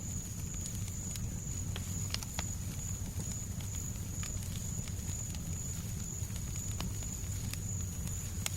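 Fireplace crackling, with scattered small pops and snaps over a steady low noise bed of soft white noise. A faint, steady high tone runs beneath it.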